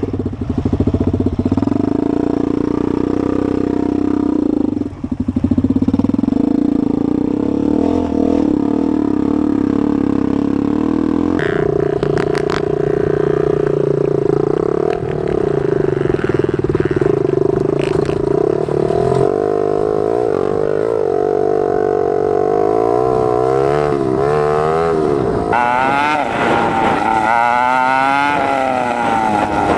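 Off-road dirt bike engine running under the rider, heard from on the bike. Its note holds steady, shifts about eleven seconds in, then rises and falls over and over toward the end as the throttle is opened and closed, with a few sharp knocks along the way.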